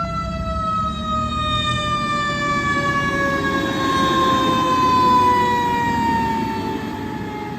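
Fire truck siren sounding one long tone that falls slowly and steadily in pitch, over the rumble of the truck's engine.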